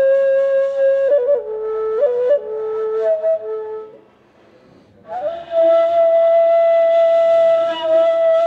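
Ney (Turkish end-blown reed flute) played solo, breathy and melodic. It holds a note, steps down through a few short lower notes, pauses for a breath about four seconds in, then sustains a long higher note to the end.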